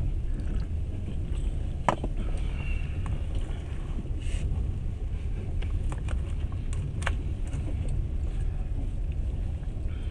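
Passenger train carriage running along the track, heard from inside: a steady low rumble with a few sharp clicks and knocks, the clearest about two seconds in and about seven seconds in.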